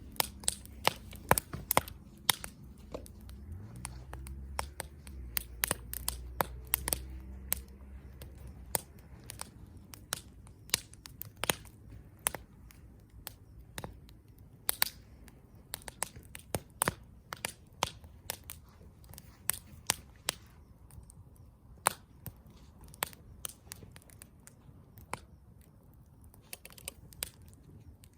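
Wood campfire crackling and popping, with sharp snaps coming irregularly, several a second at times, over a faint low rumble of the flames that dies away about a third of the way in.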